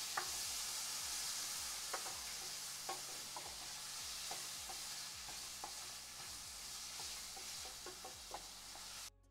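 Tomatoes, onions and ginger-garlic paste sizzling in hot oil in a pan while being stirred, with scattered ticks of the stirring spoon against the pan. This is the tomato-onion masala being sautéed down to a paste. It cuts off suddenly near the end.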